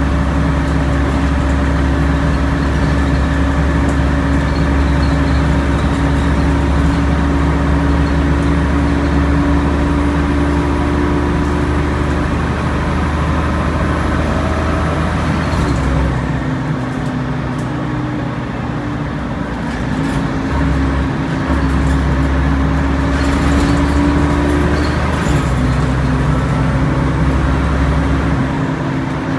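Alexander Dennis Trident Enviro 500 double-decker bus with a ZF automatic gearbox labouring uphill, the engine running with the steady whine known as its 'airplane sound'. The whining tones shift in pitch a few times, around the middle and again later.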